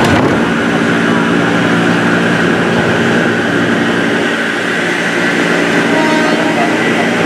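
Inside a 203 series electric commuter train, a steady mechanical hum with several held tones. A short knock comes right at the start.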